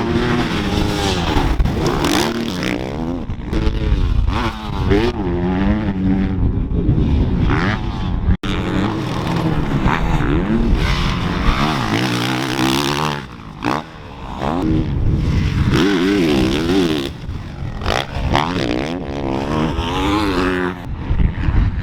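Dirt bike engines revving up and falling back over and over as the bikes accelerate and shift, with a sudden brief break about eight seconds in.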